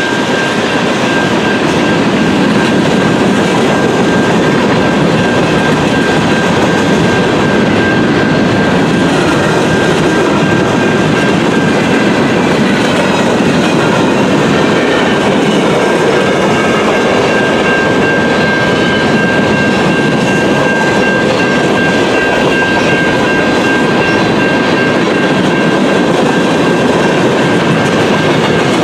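A train passing close by: a steady loud rumble of rail cars rolling past, with wheels clicking over the rail joints and a thin steady high wheel tone over the top.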